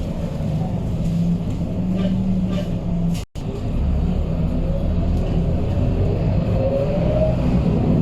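Scania K230UB bus's five-cylinder diesel engine running with a steady low drone. The sound drops out briefly a little over three seconds in, and in the second half a whine rises in pitch as the bus accelerates.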